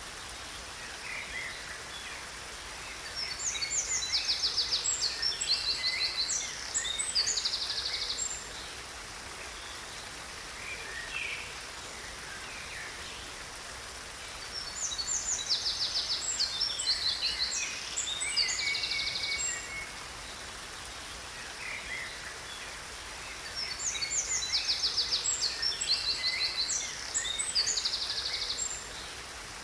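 A songbird singing in bouts of rapid high trills and chirps, three times about ten seconds apart, over the steady rush of a waterfall.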